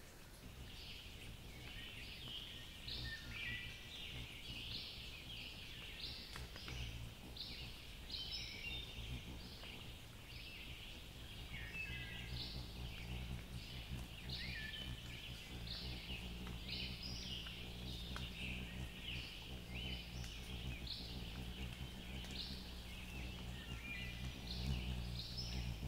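Songbirds singing in woodland: a steady run of short, high, repeated notes, several sliding upward, a few each second, over a faint low steady rumble.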